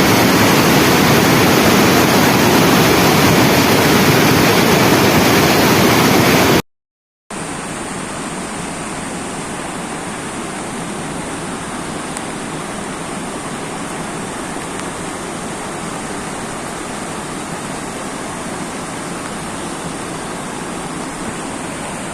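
Floodwater rushing in a swollen river or stream, a steady loud wash of water noise. About a third of the way in it cuts out for a moment and comes back quieter.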